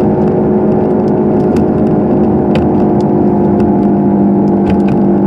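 Car idling with its heater fan running, heard inside the cabin: a steady, even hum with a few light ticks.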